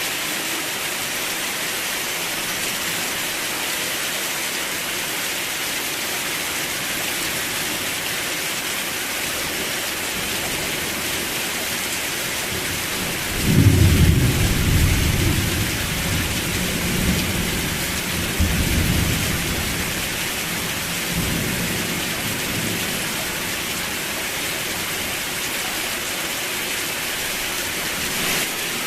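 Steady rain falling, an even hiss throughout. About halfway through a roll of thunder breaks in suddenly, rumbles low with a few swells for some eight seconds, and dies away under the rain.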